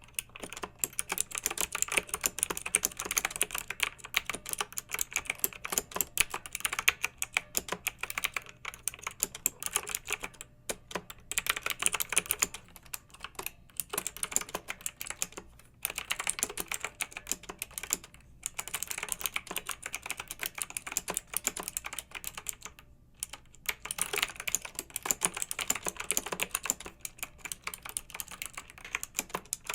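Fast, continuous typing on a clicky mechanical keyboard: rapid keystrokes with a few brief pauses between bursts.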